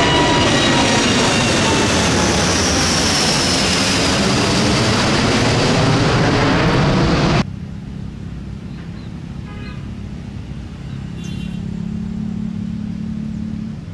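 A jet airliner taking off close overhead: a loud roar with engine whines falling in pitch as it passes. It cuts off abruptly about seven seconds in, leaving a much quieter steady low hum.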